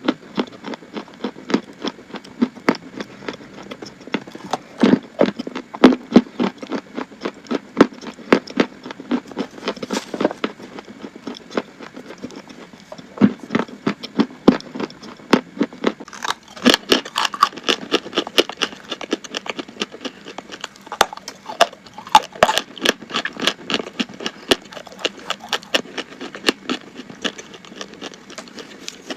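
Chalk being bitten and chewed close to the microphone: a dense, irregular run of sharp, crisp crunches, several a second, growing busier and brighter a little past halfway.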